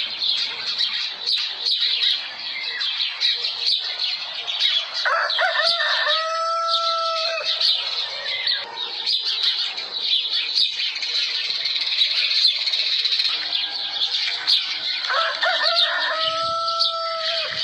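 A dense chorus of chirping birds, with a rooster crowing twice, about five seconds in and again near the end, each crow lasting about two seconds.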